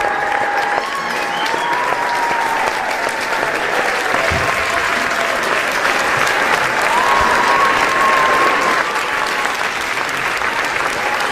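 A large audience clapping steadily and densely, with drawn-out shouts and cheers held above the clapping.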